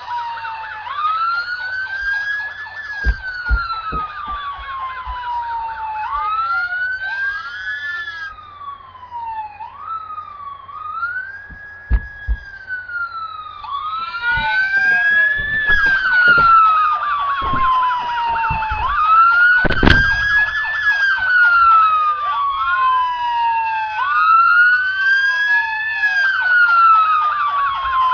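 Emergency-vehicle sirens wailing, with a slow rise and fall in pitch repeating every few seconds and a second siren gliding over it at times. There are a few short knocks under the sirens, the loudest about twenty seconds in.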